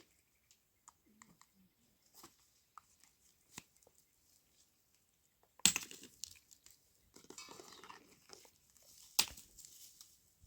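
Faint scattered clicks, then a louder burst of crackling and rustling about halfway through, more rustling after it, and a sharp snap near the end.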